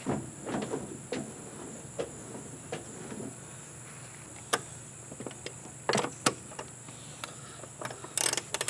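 Scattered light clicks and knocks of hands and a tool working on a Yamaha outboard motor, with a quick flurry of clicks near the end, over a steady high drone of insects.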